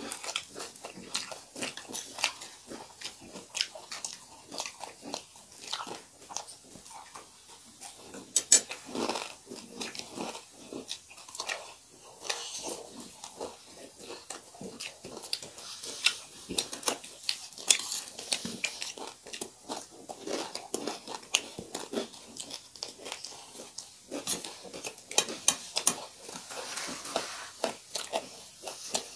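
Close-miked chewing and crunching of a meal of chiura (beaten rice) with fried chicken: irregular crisp crunches, several a second, with wet mouth sounds between them.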